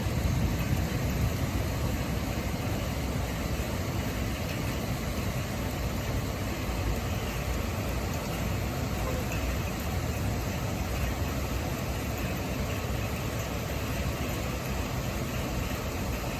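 Steady rushing noise of a heavy rainstorm with strong wind, with a deep, unsettled low rumble and no distinct thunderclap.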